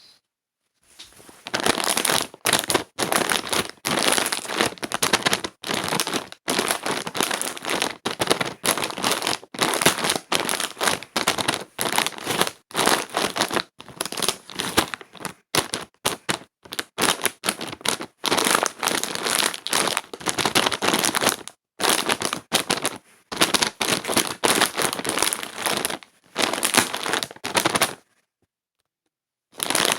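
Close crackling and crinkling sounds in dense runs of a second or two, broken by short pauses, with a longer gap near the end.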